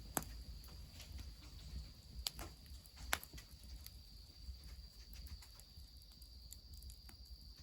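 Wood fire crackling faintly, with a few sharp pops, the loudest about three seconds in, over a steady high insect trill.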